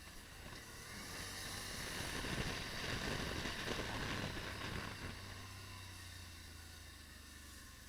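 Wind buffeting an action camera's microphone while riding a Can-Am, over the machine's low, steady engine hum. The wind rush swells for a few seconds around the middle, then eases off.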